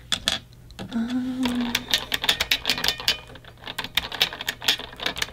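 Mechanical keyboard being typed on: a few scattered key clacks, then from about two seconds in a quick, steady run of keystrokes.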